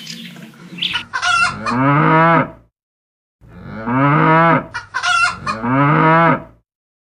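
Cattle mooing: a series of drawn-out, pitched calls in two bursts with a short silent gap between them.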